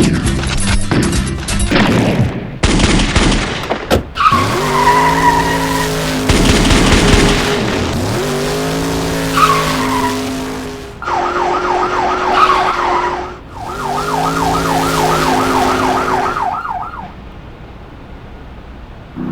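Dubbed car-chase sound effects: a rapid run of sharp cracks at the start, then a car engine revving up and down twice with short tyre squeals. After that, a police siren yelps rapidly up and down for several seconds before the sound drops away near the end.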